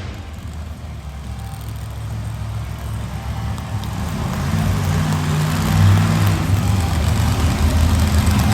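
Monster truck engine running at a low idle, a deep rumble that grows steadily louder over several seconds.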